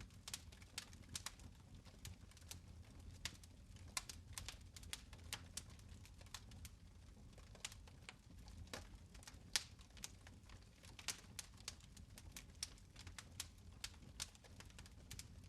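Fire in a fireplace crackling faintly: irregular sharp pops and snaps, a few a second, over a low steady rumble.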